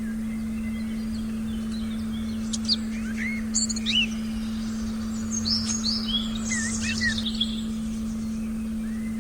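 Forest birds chirping in short bursts, in two clusters of calls, over a steady low electronic tone for meditation.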